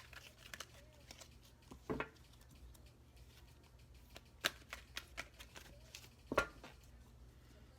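Thick, oversized Archetype cards being shuffled by hand: soft, irregular clicks and slaps of card against card, with a couple of louder snaps about two seconds in and again later on.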